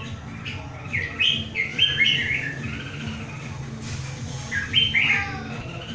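Red-whiskered bulbul singing in contest: two quick bursts of rich, bending whistled notes, one about a second in and a shorter one near the end, over a steady low hum.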